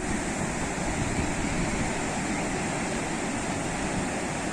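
Sea waves washing in as surf: a steady, even rush of water noise with no single breaker standing out.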